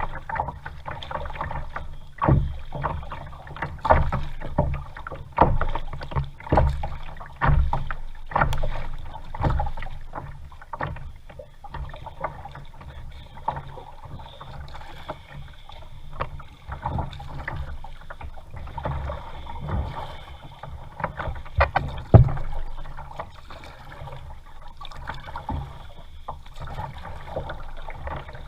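Kayak being paddled: paddle strokes swishing and splashing in the water roughly every second or so, over a low rumble of water and wind, with a sharp knock about two-thirds of the way through.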